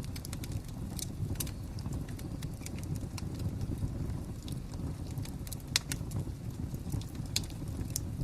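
Fire crackling: irregular sharp pops and snaps over a steady low rumble, with one louder pop about six seconds in.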